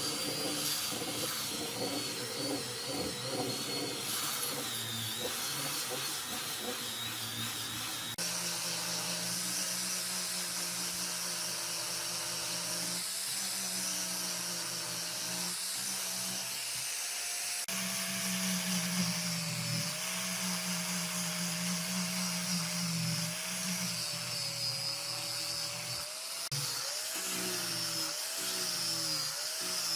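Electric power tool running on wood, its motor pitch wavering up and down as the load changes.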